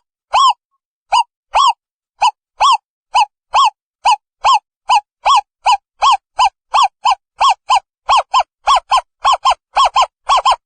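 Asian barred owlet calling: a series of short, clear hooting notes that speeds up from about two a second to three or four a second, the later notes coming in quick pairs.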